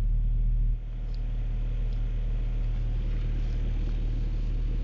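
Car engine idling, a steady low hum that dips slightly about a second in.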